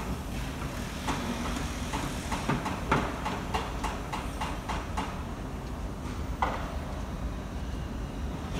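Freight train of hopper wagons rolling past, its wheels clicking over the rail joints in quick uneven clusters over a low steady rumble, with one louder clank about six seconds in.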